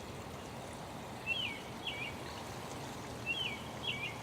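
A bird singing a short two-note phrase twice, each note a quick slurred chirp, over a steady background hiss of outdoor ambience.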